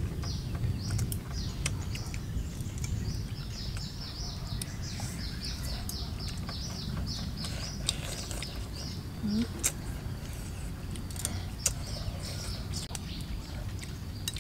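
A bird calling in long runs of quick, short, high chirps that slide downward, about three or four a second, over a steady low rumble. Scattered sharp clicks and smacks of eating with chopsticks from bowls.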